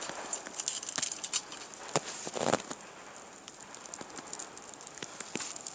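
Small wood fire crackling, with scattered sharp pops and snaps and a short rush of noise about two and a half seconds in.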